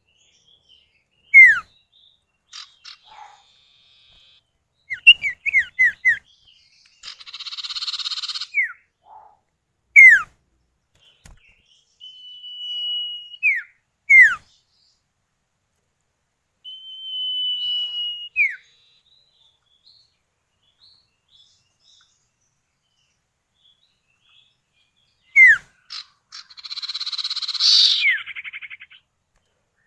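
Common ioras (sirtu or cipow), male and female calling back and forth. Short sharp whistles fall in pitch, and two long level whistles drop off at the end. Two longer bursts of harsh, buzzy chatter come about eight seconds in and near the end.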